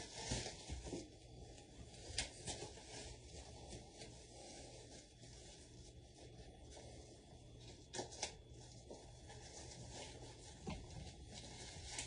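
Faint rustling and rubbing, with a few soft clicks and knocks about two seconds in, twice around eight seconds and once near eleven seconds.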